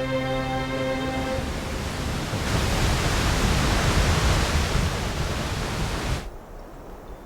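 Background music fading out in the first second and a half over a steady rushing noise. The noise grows louder about two and a half seconds in and cuts off suddenly about a second before the end.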